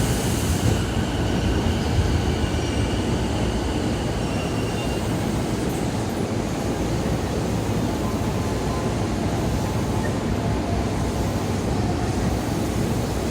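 Tokaido Line electric commuter train at the station platform: a steady rumble and hum, with a faint high squeal in the first few seconds.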